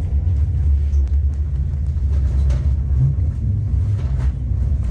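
Bernina Express train running, heard from inside the passenger carriage: a steady low rumble with a few faint ticks.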